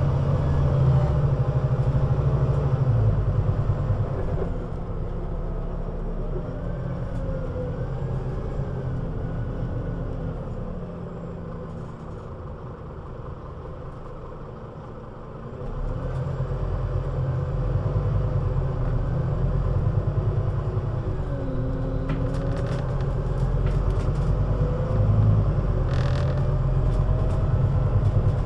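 Scania Citywide LFA articulated bus engine running under load. It eases off to a quieter low run for a few seconds around the middle, then pulls away with the rumble building again. Wavering whine tones sit over the engine, and a few clicks come near the end.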